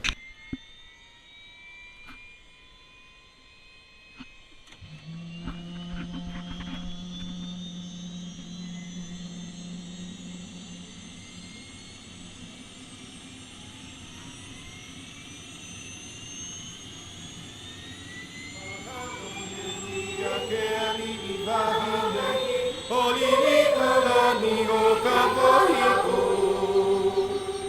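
Helicopter turbine engine starting up: a whine that rises slowly and steadily in pitch as the engine spools up, getting much louder in the last several seconds as the rotor comes up to speed.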